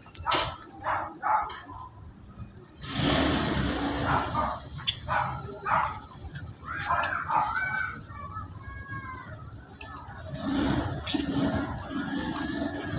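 Birds chirping and calling in short high notes and curved, gliding calls, with a rushing noise about three seconds in.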